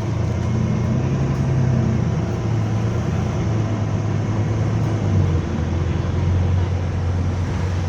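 Bus engine running with a steady, loud low droning hum: the weird noise heard only while the engine is on.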